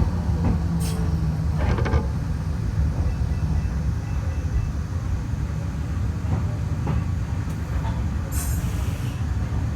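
Kobe Electric Railway train running on the rails: a steady low rumble with a few short knocks, and a brief hiss about eight and a half seconds in.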